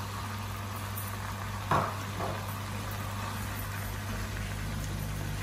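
Chicken, peppers and sweet corn frying gently in a wok over a steady low hum, with a wooden spatula knocking once against the pan a little under two seconds in.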